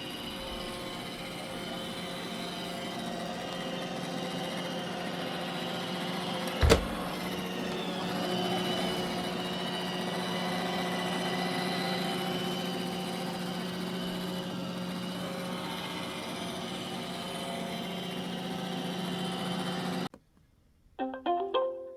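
iRobot Roomba i7+ robot vacuum running steadily, its motors and brushes giving a steady hum, with a single sharp knock about a third of the way through. The running cuts off abruptly near the end, followed by a few short pitched tones.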